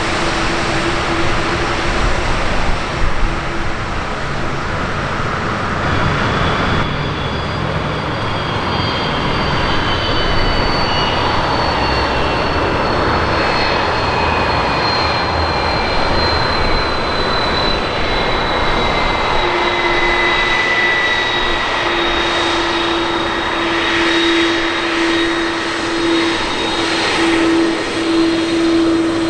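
Jet airliner's engines running loud as it passes, with a high turbine whine that glides slowly down in pitch.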